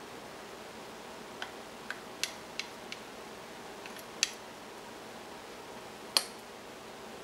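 Several light, sharp clicks and taps of kitchen utensils or dishware, irregularly spaced over a steady hiss; the two loudest come about four and six seconds in.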